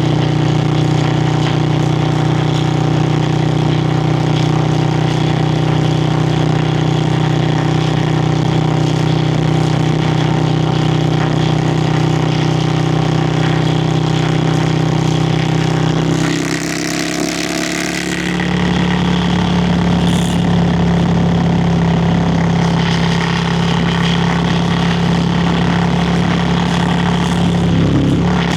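Yamaha Virago XV535 V-twin exhaust running steadily on the move. About two-thirds through, the engine note drops for a couple of seconds under a burst of wind hiss, then picks up again and settles at a slightly higher pitch.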